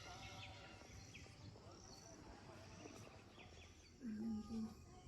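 Faint outdoor ambience with scattered short bird chirps and distant voices. A brief low steady tone sounds about four seconds in.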